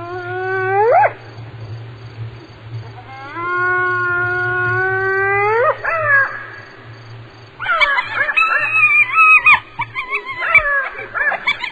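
Hyena calling: two long, drawn-out calls, each sweeping sharply up in pitch at its end, then a burst of rapid, broken cries in the last few seconds.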